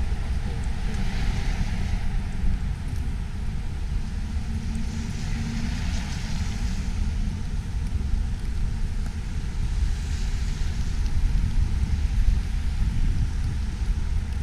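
City street traffic in a snowstorm, with a steady low rumble of wind on the microphone. Hissing swells of passing cars rise and fade about a second in, again around six seconds and near ten seconds.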